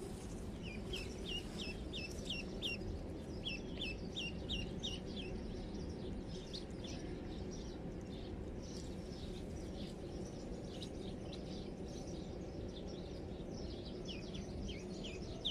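A bird chirping runs of short, sharp, high notes, two or three a second, with scattered single chirps in the middle and another run near the end, over steady low outdoor background noise.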